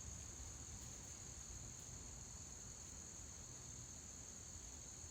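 Chorus of insects giving a steady, high-pitched drone.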